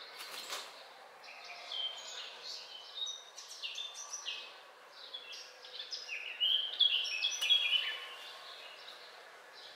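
Several songbirds chirping and calling in the trees, in short quick notes, with a busier, louder run of chirps about six to eight seconds in, over a steady background hiss. A brief click right at the start.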